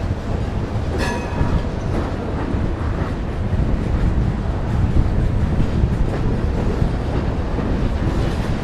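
Freight train's covered hopper cars rolling past, a steady low rumble of steel wheels on the rails, with a brief high wheel squeal about a second in.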